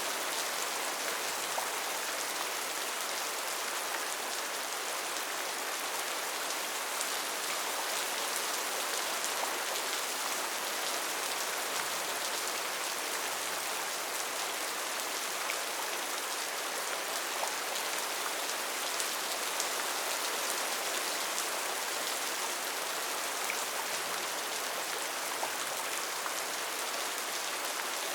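Steady rain falling, an even hiss with many small drops pattering close by.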